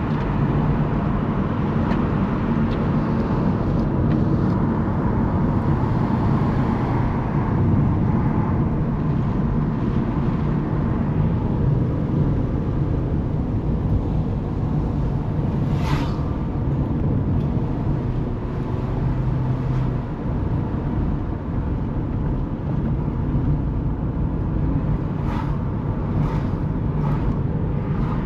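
A car driving along the road: steady engine and tyre rumble, with a sharp click about halfway through and a few more clicks near the end.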